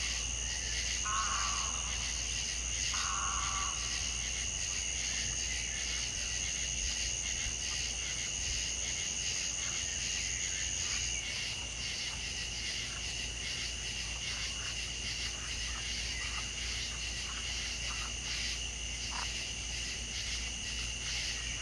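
Steady chorus of insects trilling at two high pitches, the higher one stopping about halfway through. A frog croaks twice in the first few seconds.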